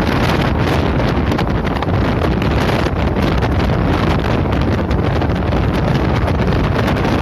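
Loud, steady wind buffeting the microphone over the running noise of a moving passenger train.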